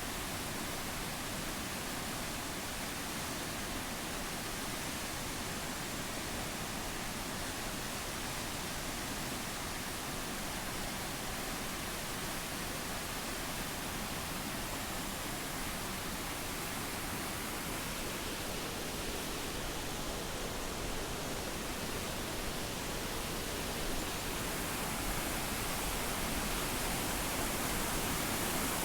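Steady rushing of water from the Triberg waterfall's cascades, an even noise that grows slightly louder near the end.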